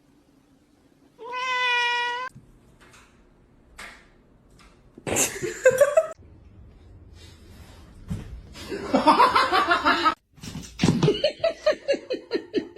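Cat meowing: a steady, clear meow about a second in, then further drawn-out cat calls, one rising in pitch.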